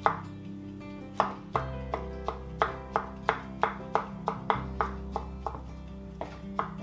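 A kitchen knife chopping mushrooms and onions on a cutting board: a steady run of sharp strikes, about three a second, over background music.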